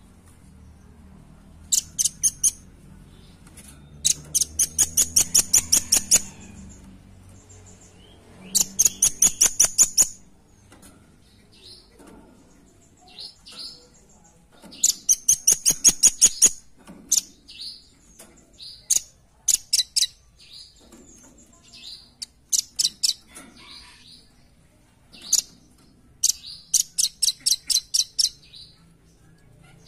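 Velvet-fronted nuthatch (rambatan paruh merah) calling: repeated bursts of rapid, high, sharp notes, about eight a second, each burst lasting one to two seconds, with scattered single chips in between.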